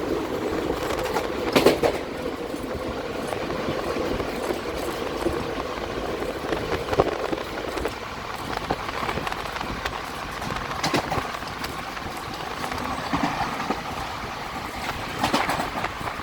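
Express passenger train's coaches running through at speed without stopping: a steady rush and rumble of wheels on rail, broken by a few sharp clacks over rail joints.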